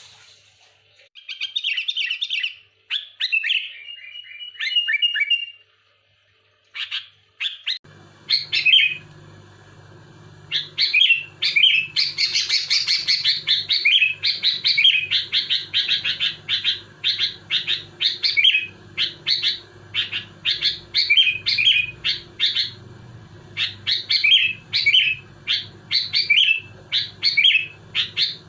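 Sooty-headed bulbul singing: a few short whistled phrases, then from about eight seconds in a fast, dense run of repeated chattering notes, over a steady low hum.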